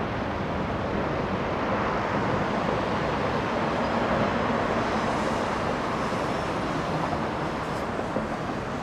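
Jet aircraft engines, a steady rushing noise with a faint low hum and, midway, a faint high whine.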